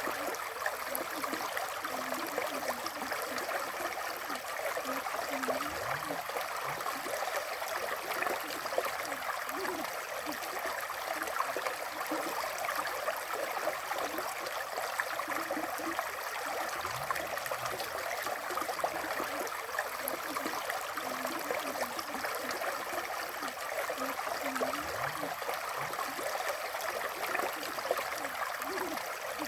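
River water flowing steadily, with small gurgles scattered through it.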